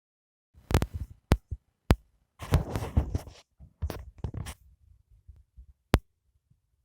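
A few sharp knocks or clicks, spread through the clip, and two stretches of rustling about midway, like things being handled.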